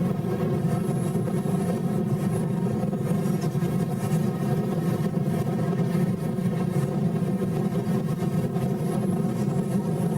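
Steady engine rumble of a running vehicle, even in level throughout.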